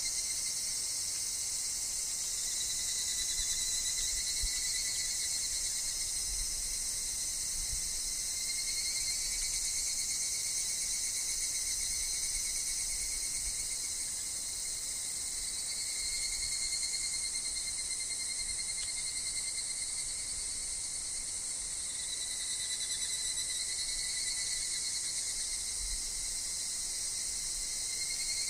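A dense, steady chorus of higurashi cicadas (evening cicadas) in a wood, swelling and fading in slow waves every few seconds.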